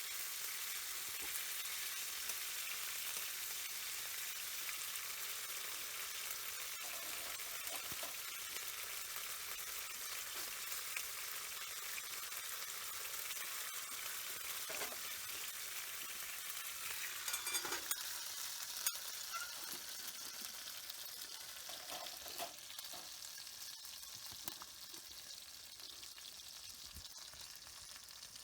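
Food sizzling in a hot pan: a steady frying hiss with a few sharp clicks and taps about two-thirds of the way through, dying down toward the end.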